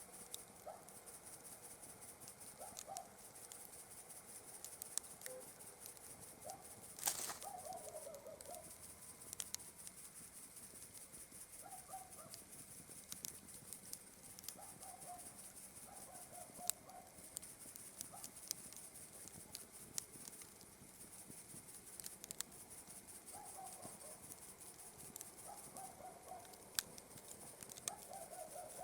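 Campfire crackling with scattered sharp pops, one loud crack about seven seconds in, over a steady high chirring of night insects. Short calls from an animal repeat every few seconds.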